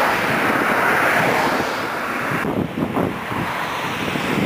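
Wind buffeting the camera microphone as a loud, rough rush of noise. The sound changes abruptly about two and a half seconds in, becoming duller and more rustling.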